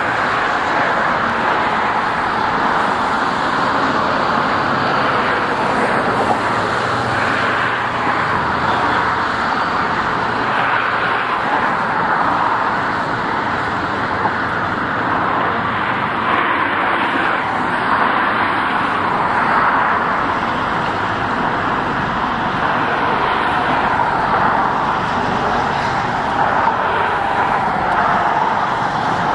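Steady road-traffic noise from vehicles crossing the bridge, an even rush of tyres and engines with no single vehicle standing out.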